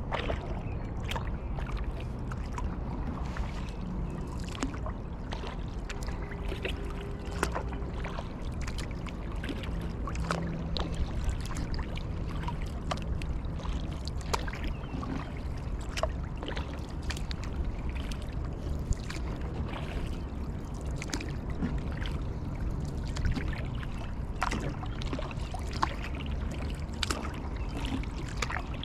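Kayak paddling: the paddle blades dip and splash and water trickles off them in many small, irregular splashes, over a steady low rumble.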